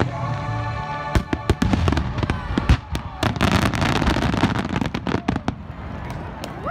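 Fireworks going off in a rapid, irregular string of bangs and crackling pops, with music playing underneath.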